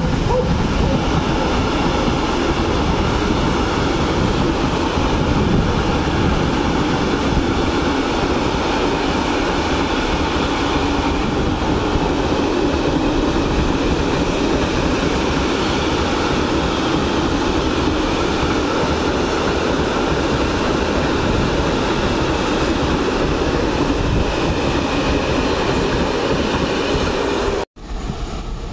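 Freight train of open wagons passing close by: a loud, steady rolling rumble of wheels on rail that cuts off suddenly near the end.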